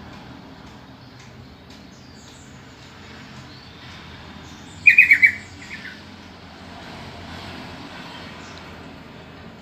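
Yellow-vented bulbul (trucukan) calling: one short burst of four quick, loud notes about five seconds in, with a fainter note just after and a few faint chirps.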